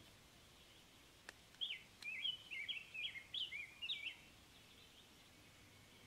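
A bird singing a quick run of short rising and falling notes for about two and a half seconds, starting a little over a second and a half in, over a faint steady background hiss.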